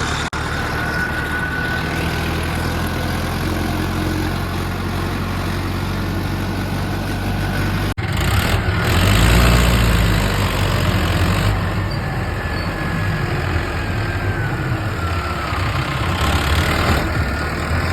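Tractor diesel engine running steadily; after a short break about eight seconds in it is louder and rises and falls.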